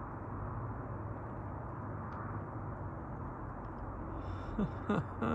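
Steady outdoor background noise, a low rumble and hiss with a faint steady hum, typical of distant road traffic. Near the end a short voice-like sound.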